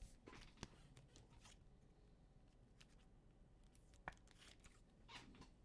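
Near silence with a few faint clicks and rustles of trading cards being handled and slid one off another, the sharpest click about four seconds in.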